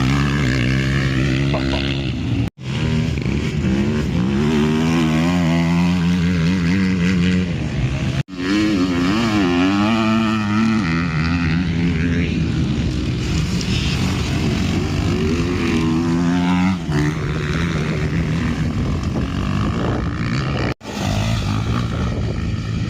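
Motocross dirt bike engine revving hard, its pitch climbing and falling again and again with throttle and gear changes as it rides. The sound breaks off abruptly for an instant three times.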